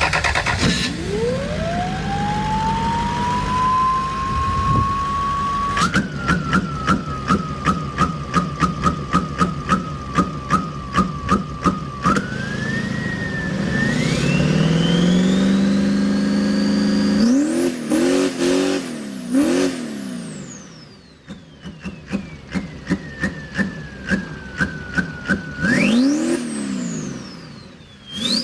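A motor whine that rises steadily in pitch, then holds while a sharp click repeats about twice a second; later it climbs high, drops, and falls away in long glides with more regular clicking.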